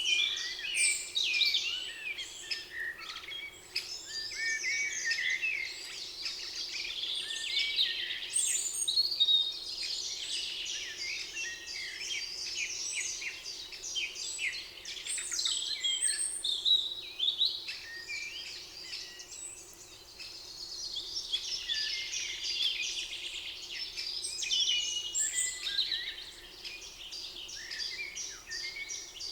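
Several songbirds singing at once, a dense chorus of overlapping chirps, trills and whistles. A faint steady hum sits low underneath.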